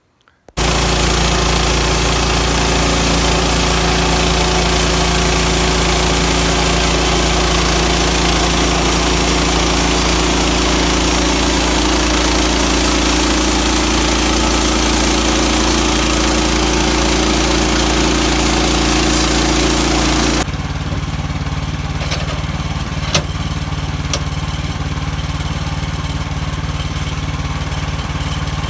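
Portable sawmill's engine running steadily while cutting a log. About 20 seconds in the sound changes abruptly to a duller, lower running sound, with a couple of sharp clicks after it.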